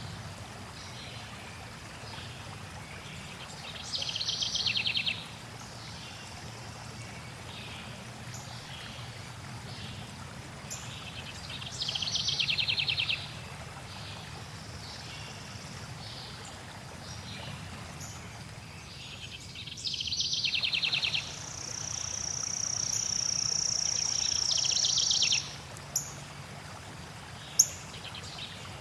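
Songbirds calling over steady flowing water. A rapid trill comes about every eight seconds, a long, high, steady note swells for about four seconds late on, and two short sharp chips follow near the end.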